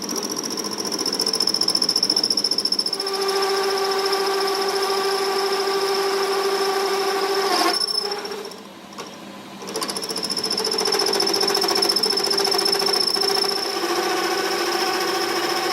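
A workshop machine running with a steady high whine over a rattling drone. It cuts out about eight seconds in and starts up again a second and a half later.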